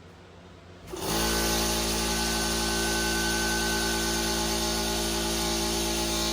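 Air compressor switched on about a second in, its motor and pump starting and then running steadily, to supply air for the plasma cutter, which will not cut without it.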